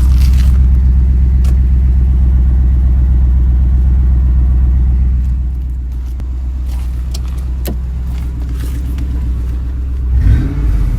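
2003 Mercury Grand Marquis's 4.6-litre V8 idling through a Flowmaster 40 Series dual exhaust with a steady deep rumble, which grows quieter about halfway through. Near the end the engine is revved.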